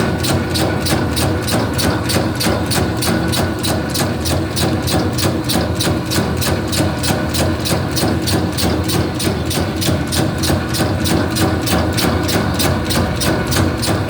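Meatball-forming machine running, its mechanism clacking evenly at about four strokes a second over a steady motor hum.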